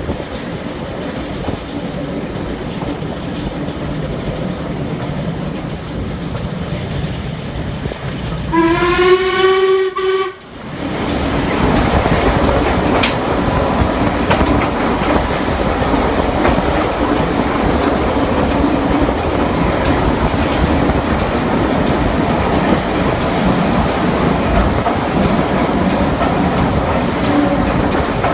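Steam-hauled train running, heard at an open carriage window: steady wheel and running noise, with a locomotive's steam whistle sounding once for about a second and a half, about nine seconds in. The running noise grows louder from about eleven seconds on.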